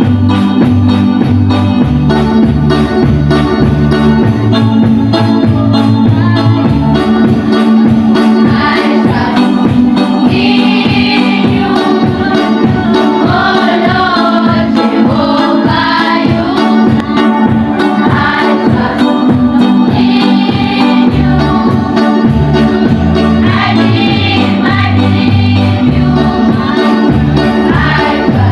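Live gospel choir singing over an electronic organ and a deep, rhythmic bass line. The voices come in about seven seconds in, over the keyboard accompaniment.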